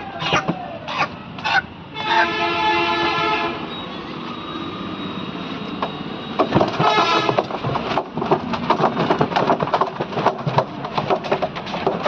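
A horn blares in one steady, unwavering blast about a second and a half long, then a shorter second blast, followed by a fast, continuous clatter of knocks.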